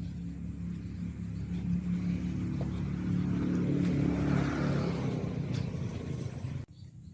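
A motor vehicle's engine going past close by, growing louder to a peak about four seconds in and then easing off, before cutting off suddenly near the end.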